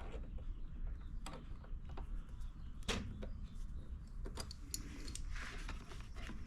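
Pliers clicking and scraping against the carburetor bowl drain screw and surrounding metal and plastic inside a small inverter generator's casing: a scattering of sharp clicks, the loudest about three seconds in.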